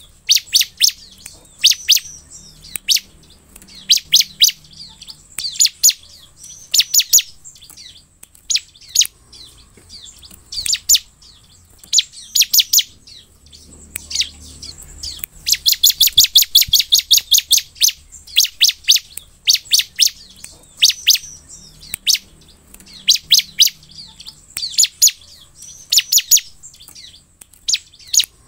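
Bar-winged prinia (ciblek) calling continuously: sharp, high chipping notes in short clusters of two to five, repeated every second or two, with a long fast run of notes about halfway through.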